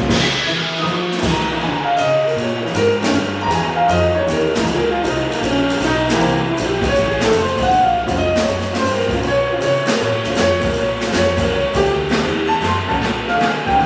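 Acoustic jazz quintet playing a bebop tune: a busy melodic line moving up and down over double bass and drums, with steady, even cymbal strokes.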